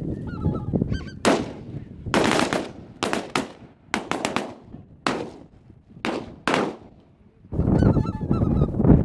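Geese honking, then a volley of about a dozen shotgun blasts from several guns, spaced unevenly and each trailing off in an echo, with a lull between the shots. Near the end the honking of the flock swells again.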